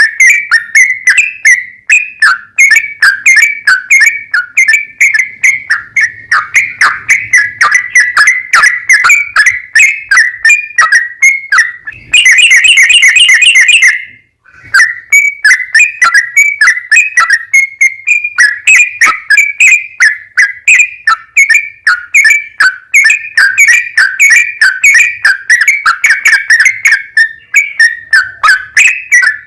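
Yellow-vented bulbul (trucukan) singing a long run of loud, rapid, bubbly chirping phrases without pause. About 12 seconds in there is a harsher, denser burst, then a brief break before the chirping resumes.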